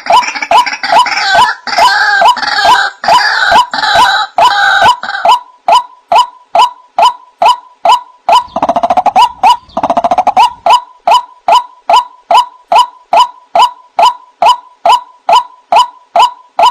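White-breasted waterhen (ruak-ruak) calling: a fast, even run of repeated short notes, about two and a half a second, with a harsher, fuller chorus of calls over them for the first five seconds and again around nine to ten seconds in.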